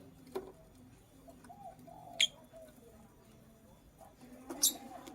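Gray lovebird giving two short, sharp, high chirps, about two seconds in and again near the end, over soft low cooing that goes on throughout.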